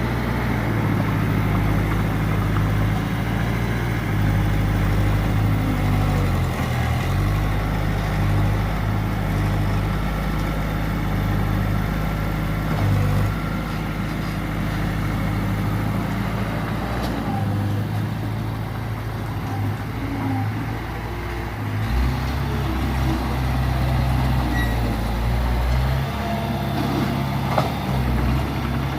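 Diesel engine of earthmoving machinery running under load, its engine speed stepping up and down several times.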